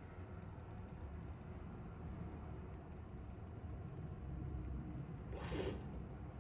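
Soldering gun held on, with a steady low hum, while solder is worked onto the contact. A short hiss about five seconds in.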